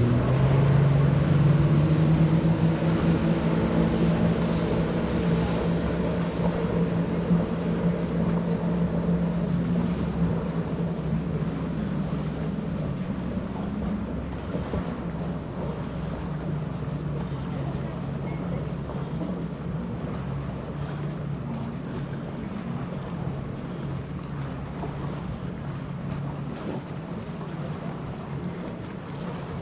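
Jet ski engine running at speed with a steady drone after a rise in pitch at the start, gradually fading over the half minute. Wind and water noise run underneath.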